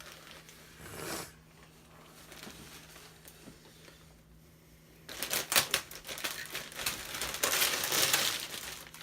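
Packing tape being picked at, then peeled and torn off a cardboard box. Faint scratching and handling at first, then from about five seconds in a loud, crackling rip of tape and crinkling of cardboard and paper.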